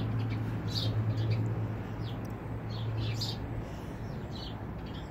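Small birds chirping in scattered short, high calls over a steady low hum.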